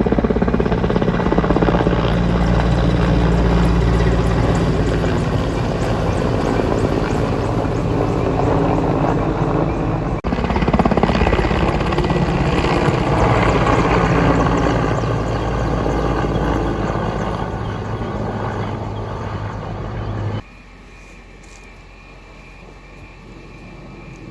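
Firefighting helicopter's rotor and engine running loudly and steadily close by. The sound cuts off abruptly near the end, leaving a much quieter steady background noise.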